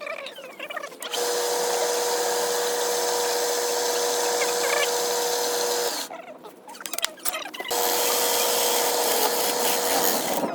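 Electric power tool running with a steady whine and a harsh cutting noise on wood, in two runs with a break of about a second and a half just after the middle.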